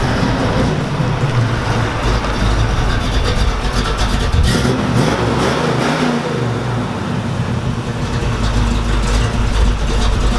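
The fuel-injected 400 cu in V8 of a 1971 Chevrolet Camaro Z28 running at low speed as the car pulls up, with a brief rise and fall in engine speed about halfway through.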